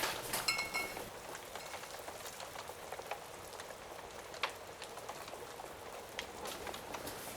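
Steady rain ambience with scattered sharp crackles of a wood fire. A brief high ringing tone sounds about half a second in.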